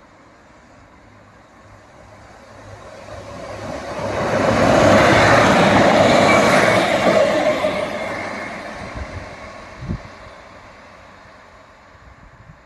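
A train passing by, its noise swelling over a few seconds, loudest in the middle, then fading away. A single knock comes near the end.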